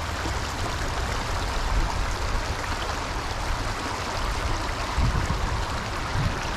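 Small stream's water running over rocks: a steady rushing, with a low rumble underneath and a couple of brief low bumps near the end.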